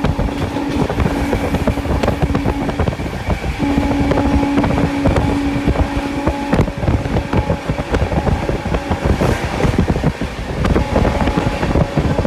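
An express train's coach running at speed: a continuous rumble of wheels on rails, dense with quick clicks. A steady hum runs through the first few seconds, drops out, and comes back for a few seconds more.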